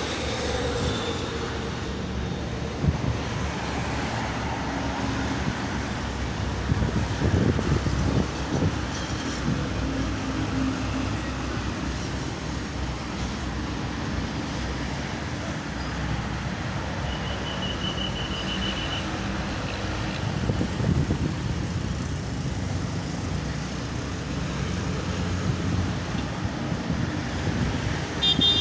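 Steady toll-road traffic: cars and trucks passing in a continuous rumble that swells as heavier vehicles go by. A short, high, rapid trill comes about two-thirds of the way in.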